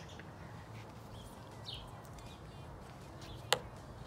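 Quiet outdoor background with a small bird chirping briefly a couple of times, and a single sharp click about three and a half seconds in.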